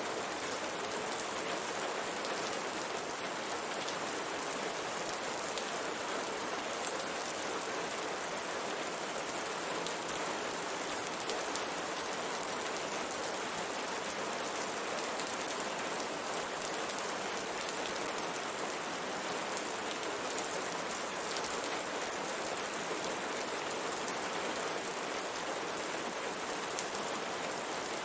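Steady rain falling on and against a window pane, an even hiss with faint scattered drop ticks.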